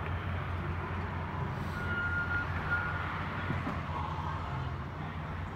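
Canadian Pacific Holiday Train's lit passenger cars rolling slowly past with a steady low rumble. A thin high tone, a short squeal, sounds briefly twice about two and three seconds in.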